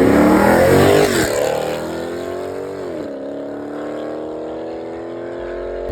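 A car engine revving hard and accelerating away, its pitch dropping twice at gear changes and climbing again after each, growing quieter as the car pulls off.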